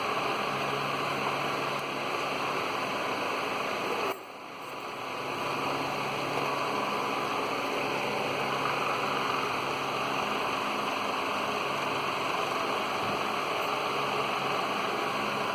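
Steady hiss with a faint low hum underneath. The level drops briefly about four seconds in, then recovers.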